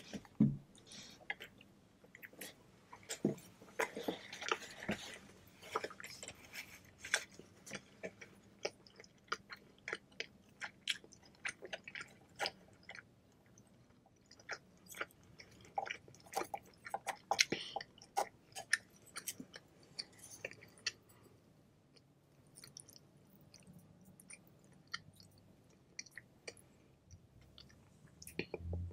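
Close-miked mouth sounds of someone eating pho noodles: chewing with many irregular wet clicks and smacks, and a few brief hissy stretches now and then.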